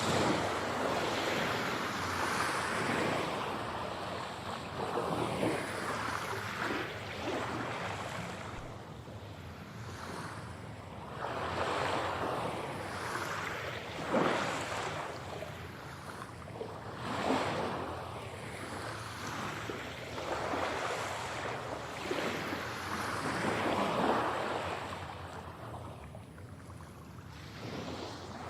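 Sea waves breaking and washing up on a shore, surging and receding in swells every few seconds.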